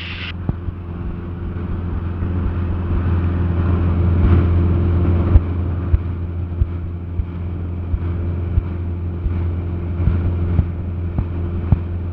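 Cessna 172SP's four-cylinder Lycoming piston engine and propeller droning steadily in cruise flight, heard inside the cabin. A few sharp clicks are scattered through it.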